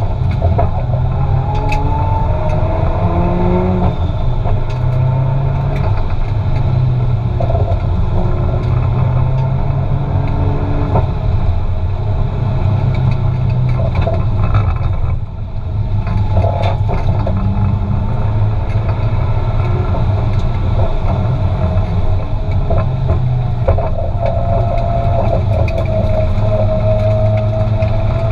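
Turbocharged 2JZ straight-six of a Nissan Silvia S15, heard from inside the cabin while being driven hard in a drift, its pitch rising and falling continuously. Its level drops briefly about halfway through.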